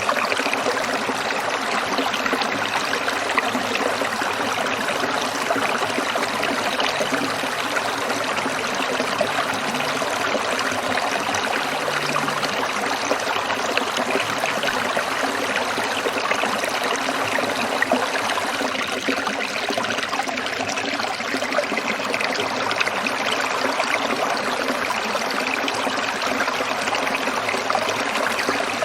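Water trickling and burbling over stones in a small stream, a steady splashing hiss without pause.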